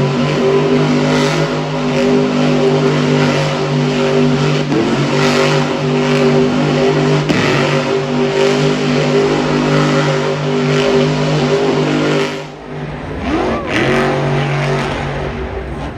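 Monster truck's supercharged V8 running hard at high, steady revs, with brief throttle lifts every couple of seconds. About twelve and a half seconds in, the sound cuts abruptly to a quieter engine whose revs rise and fall.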